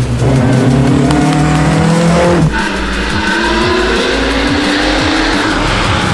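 Rally car accelerating hard at full throttle, its engine revving up through the gears. About two and a half seconds in, the pitch drops suddenly at a gearshift, then climbs again.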